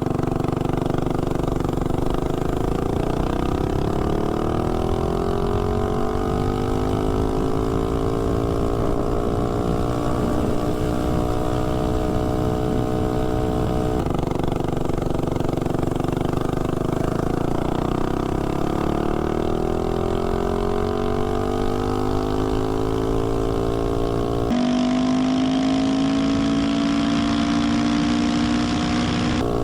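Tillotson 212 single-cylinder four-stroke engine of a Doodlebug mini bike running flat out on gasoline in a top-speed run. Its pitch climbs as the bike gathers speed and then holds high and steady. This happens twice, and near the end it holds a steady high pitch.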